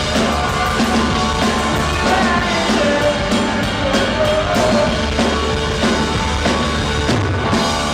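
Live rock band playing, with a drum kit keeping a steady beat under guitars and some singing.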